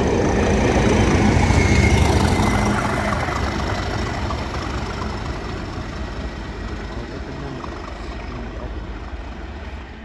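A train passing through the station, its low rumble loudest about two seconds in and then fading steadily as it moves away.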